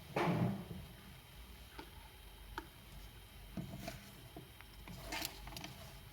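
Scattered light taps and clicks at irregular intervals, with a short rustling burst at the start and a small cluster of clicks about five seconds in.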